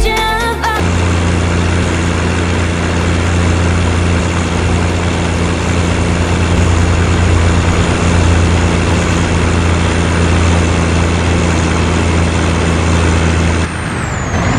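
Scania truck's diesel engine running steadily at a constant speed, a loud, even low hum with no revving. It takes over as the music cuts off about a second in and drops away near the end.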